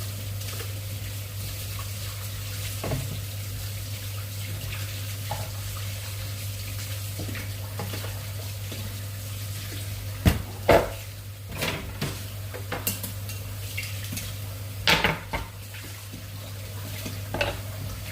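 A metal utensil knocking and scraping against a cooking pot, in a handful of sharp clanks during the second half. Under it is a steady low hum.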